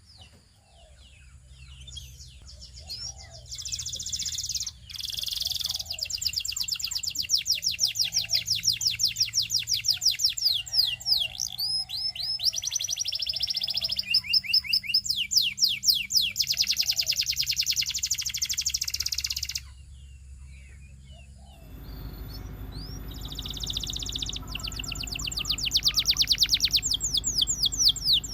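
Domestic canary singing: long, fast trills of rapidly repeated high notes, broken by short pauses. The song drops away for about two seconds about two-thirds of the way in, then starts again over a steady low hum.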